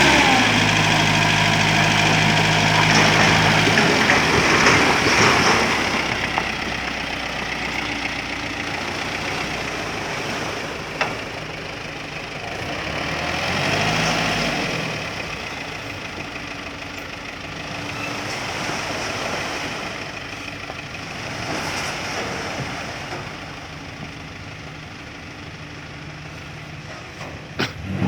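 Dump truck's diesel engine idling steadily at first, then running as a rougher, noisier sound that slowly fades, with a few brief swells in engine speed.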